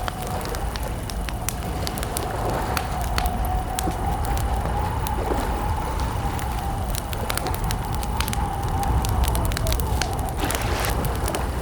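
Wood campfire crackling: irregular sharp pops and snaps over a steady low rumble, with a faint wavering high tone running underneath.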